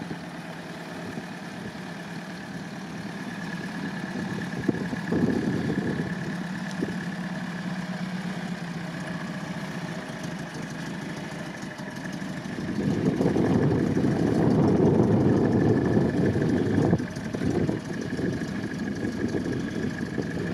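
UAZ off-roader's engine running at low revs as the truck crawls on a steep slope, picking up for a few seconds about two-thirds of the way through, then easing back.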